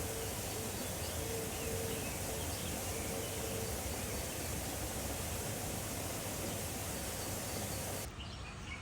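Steady, even outdoor background hiss that drops away suddenly near the end, leaving quieter ambience with faint bird chirps.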